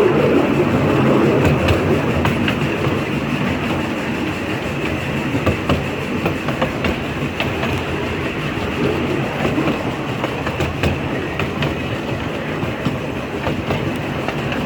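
A small-gauge train rolling along the track: a steady rumble with scattered sharp clicks of the wheels over the rail joints.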